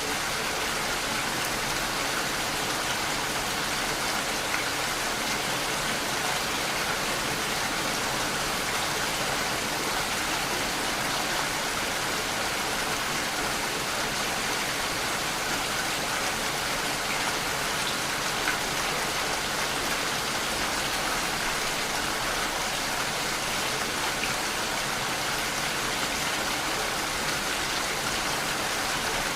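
Steady, even rainfall: a dense hiss of rain with the odd louder single drop.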